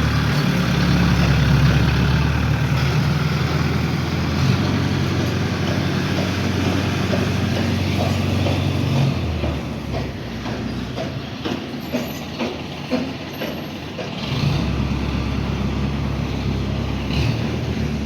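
Heavy vehicle engine running steadily, dying down about nine seconds in. A scatter of metallic clanks and knocks follows, then the engine picks up again about five seconds later, during crane loading of a lorry.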